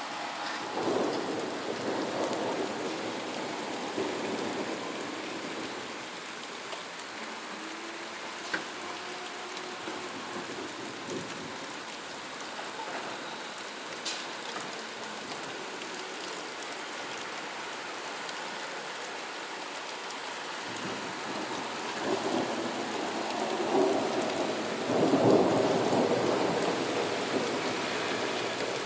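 Steady rain falling during a thunderstorm, with rolling thunder: a rumble about a second in, then a longer, louder roll of thunder near the end.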